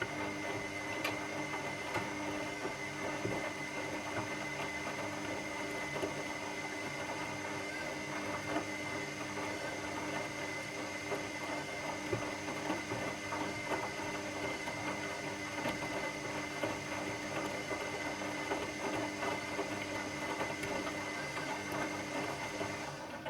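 Washing machine running steadily, its motor giving a constant whine of several held tones over a churning noise, which cuts off abruptly near the end.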